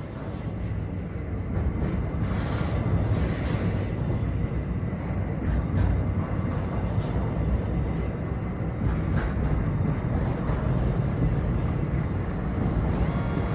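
Long double-stacked container freight train hauled by diesel locomotives, running past with a steady low rumble and a few sharp clanks from the wagons.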